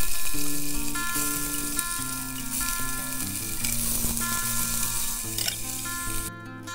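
Chopped onion sizzling in hot oil in a stainless steel saucepan. The sizzle starts suddenly, loudest at first as the onion hits the oil, and cuts off near the end.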